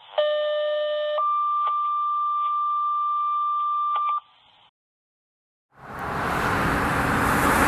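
Two-tone sequential fire-dispatch paging tones over a radio: a lower tone for about a second, then a higher steady tone held about three seconds. After a short silence, a loud steady rushing noise begins about six seconds in.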